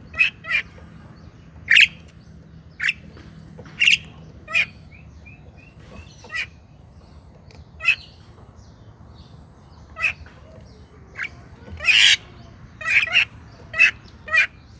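A bird calling: short, sharp calls repeated about once a second, some in quick pairs, over a faint steady hum.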